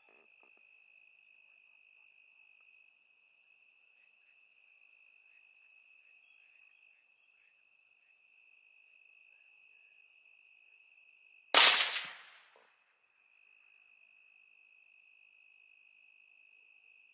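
A single rifle shot about two-thirds of the way through, its report dying away over about a second. Behind it, crickets chirr steadily on one high note and fall silent for a moment just after the shot.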